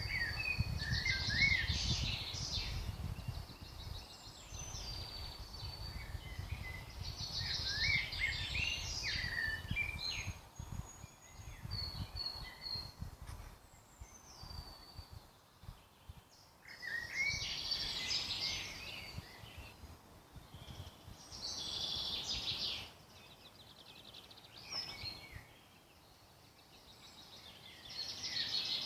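Woodland birdsong: several birds singing, with bright, warbling song phrases coming in bursts every few seconds and softer chirps between them. A low rumble sits beneath the song for roughly the first ten seconds.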